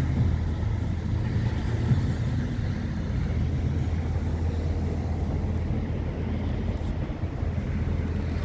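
Scania truck's diesel engine running steadily at a low, even speed.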